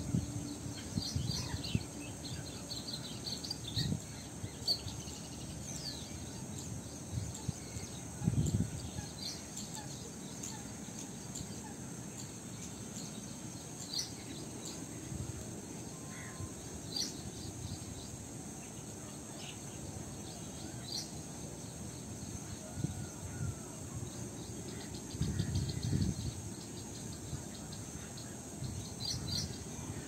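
Outdoor wetland ambience: scattered short bird chirps over a steady high hiss, with a couple of brief low rumbles about eight seconds in and again near the end.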